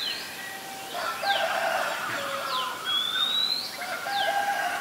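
Birds calling: short high whistled notes, some sliding quickly down and some rising slowly, repeat about every second and a half. A louder, lower call comes in about a second in, lasts well over a second, and returns near the end.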